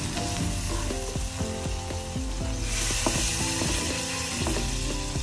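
Fish steaks frying with ginger strips and soybeans in a pan of sauce: sizzling and bubbling with many irregular clicks and pops, with a slotted spatula scraping the pan. A louder hiss swells up about three seconds in.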